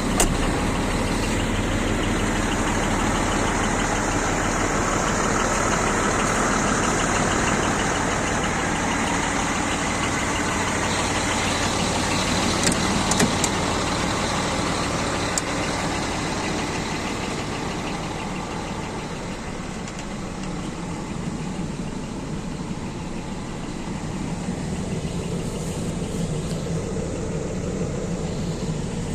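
Scania P420 truck's diesel engine running steadily, easing off slightly in level for a few seconds past the middle.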